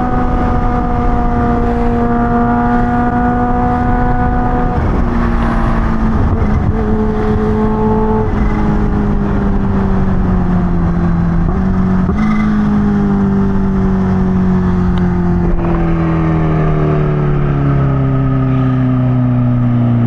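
Kawasaki Ninja H2 sport bike's supercharged inline-four running while the bike slows. The engine note is steady at first, then falls gradually through the rest, with brief jumps up in pitch about 7 and 12 seconds in as it is downshifted, over steady wind noise.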